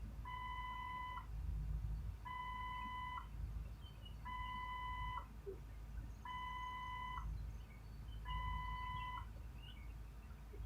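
Electronic beeper sounding five times, each beep about a second long and spaced two seconds apart, over a steady low rumble.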